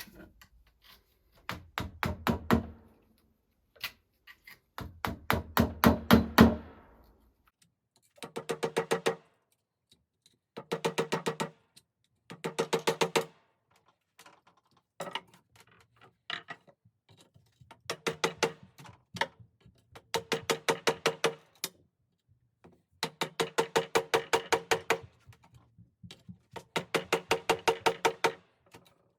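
Repeated bursts of quick hammer strikes, each burst a rapid run of blows lasting about a second, with a short ringing tone; the loudest burst comes about six seconds in.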